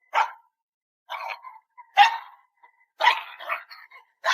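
A dog barking, about five or six short barks with brief pauses between them.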